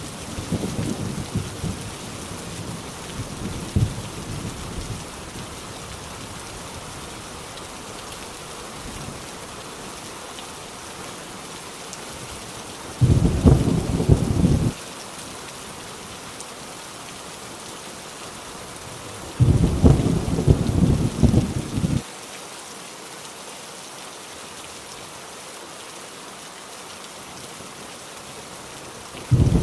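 Heavy rain drumming steadily on a rusty tin roof, with thunder. A low rumble dies away over the first few seconds. Two loud rumbles of about two seconds each come near the middle and later on, and a third begins right at the end.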